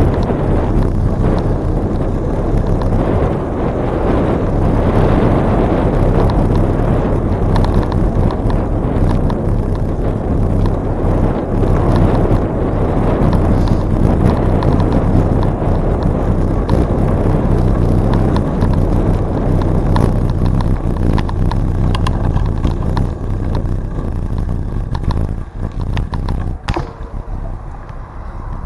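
Riding noise of a bicycle on a trail: wind on the microphone with tyre rumble and small rattles, steady and loud, dropping off for the last few seconds.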